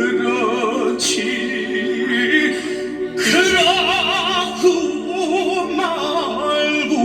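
Music: a voice singing long held notes with wide vibrato over steady instrumental accompaniment.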